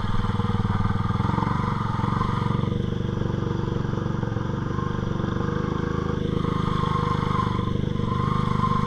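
Dirt bike engine running steadily at low throttle.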